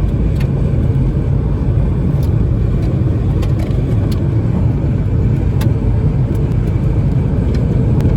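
Strong storm wind buffeting the microphone: a loud, unbroken low rumble, with a few faint ticks.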